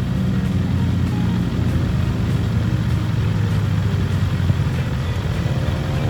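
Motorcycle engine running with a steady low, pulsing rumble, its pitched note rising again near the end.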